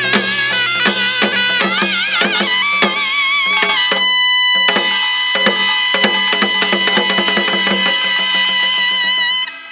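Korean traditional dance music in gutgeori rhythm: a melody with wide, wavering vibrato over regular janggu drum strokes. About four seconds in, the melody settles onto a long held note while the drumming goes on, and the music stops just before the end.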